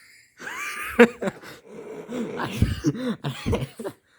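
Dog coughing and gagging in a choking fit: a run of hacking sounds with squeaky tones that rise and fall, the sharpest cough about a second in.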